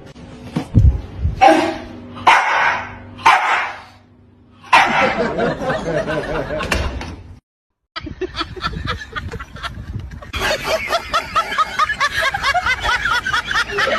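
A dog barking several times in short, separate barks, then a cut to background music near the end.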